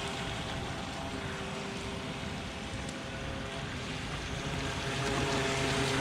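Brushless electric motor of a Bandit Pistolero RC speed boat running steadily on the water on a 2S battery: an even motor tone over a rushing noise, a little louder near the end.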